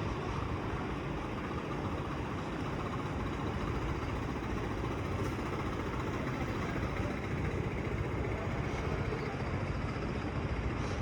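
Steady city street ambience dominated by road traffic: vehicle engines running and passing, a continuous low rumble with no distinct single event.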